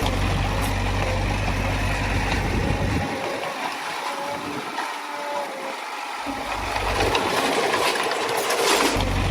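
Diesel engine of heavy earthmoving machinery running steadily, its low rumble dropping away for a few seconds in the middle and then returning.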